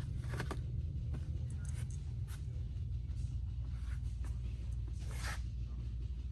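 Steady low hum of indoor room tone, with a few faint clicks and rustles scattered through it.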